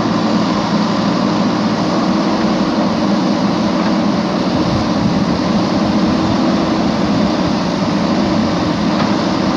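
Steady engine noise, a constant low hum that holds the same pitch throughout without revving.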